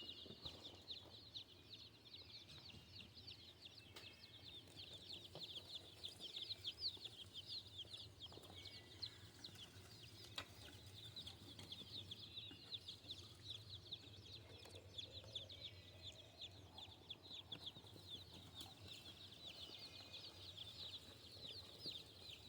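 A brood of newly arrived baby meat-bird chicks peeping constantly, many short high peeps overlapping into a continuous chatter.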